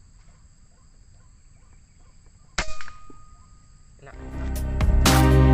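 Faint steady insect drone, then a single sharp air rifle shot with a brief metallic ring about two and a half seconds in. Music fades in after about four seconds and is loud near the end.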